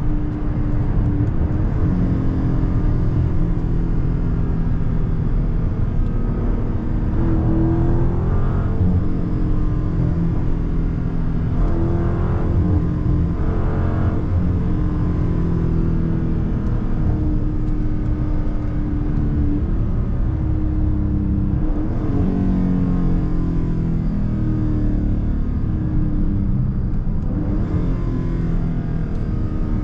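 Dodge Charger Scat Pack's 392 Hemi 6.4-litre V8 running at highway speed, heard from inside the cabin over road and tyre noise. The engine note rises and falls several times as the automatic gearbox changes gear.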